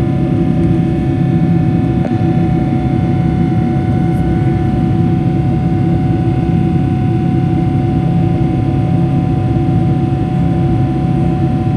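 Steady roar of a Boeing 777-300ER's GE90 jet engines and rushing air, heard inside the passenger cabin, with a few steady whining tones over the roar and no change in level.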